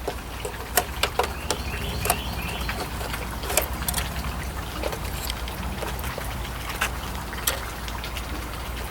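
Scattered light clicks and knocks from parts being handled and set down during reassembly of a computer, over a steady low hum.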